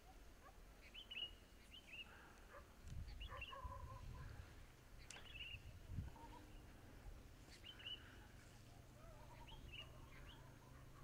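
Faint chirping of small birds, short calls repeated every second or two, with a soft low rumble joining about three seconds in.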